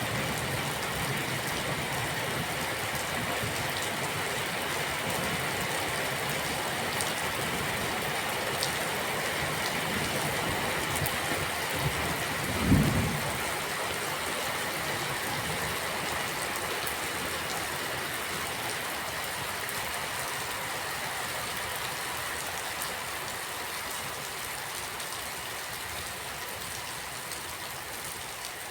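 Steady rain falling, an even hiss, with one short low thump about halfway through. The rain eases slightly toward the end.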